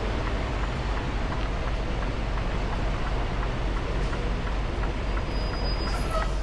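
Semi truck's diesel engine running steadily, heard from inside the cab while the rig is maneuvered slowly, with a few faint ticks over the low rumble.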